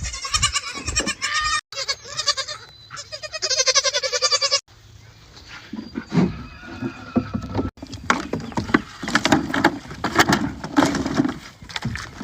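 Kid goats bleating: several long, wavering bleats in the first few seconds, then irregular knocks and rustling.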